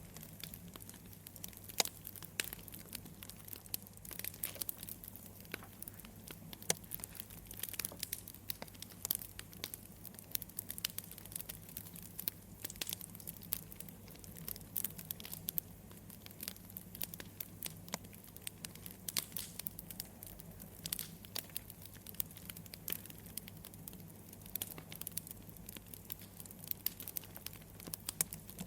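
Wood fire crackling: irregular sharp pops and snaps, several a second, over a low steady hum.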